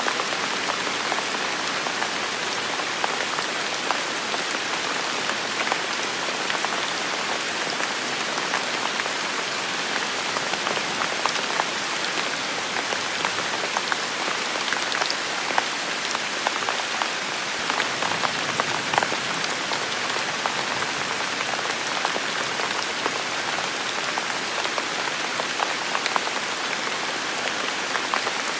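Steady heavy rain falling, a dense even hiss with many individual drops pattering and ticking close by.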